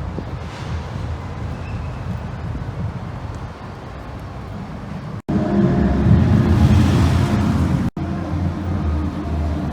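Car engines running amid low rumbling outdoor noise, with wind buffeting the microphone. The sound jumps abruptly louder a little past halfway, then drops back about two and a half seconds later.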